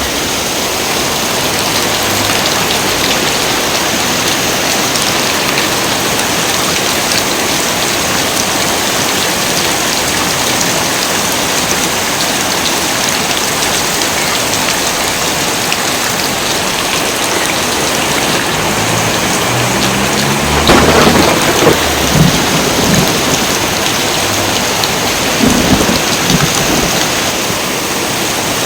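Heavy rain pouring steadily. About two-thirds of the way through, thunder rolls in and rumbles, with its loudest cracks in two surges a few seconds apart.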